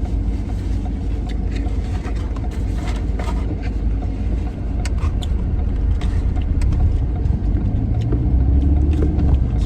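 Car cabin noise while driving: a steady low rumble of engine and road that grows louder near the end, with a few small clicks and rustles over it.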